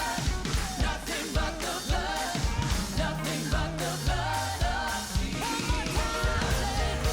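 Worship music: singing over a band with drums and a bass line, at a steady beat.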